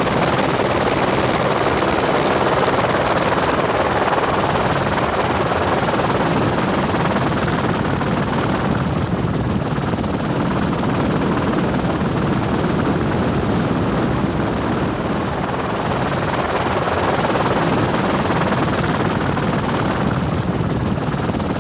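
A helicopter's rotor and engine running steadily and loudly overhead.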